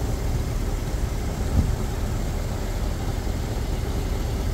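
1972 Lincoln Continental Mark IV's 460 V8 idling with a steady low rumble. It has an exhaust leak.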